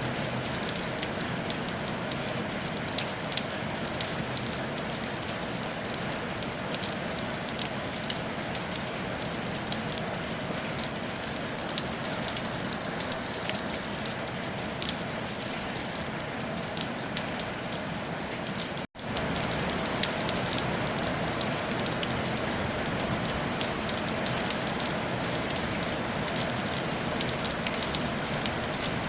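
Steady rain falling on a tile roof: an even hiss dotted with the ticks of single drops. About two-thirds of the way through, the sound cuts out for an instant and comes back slightly louder.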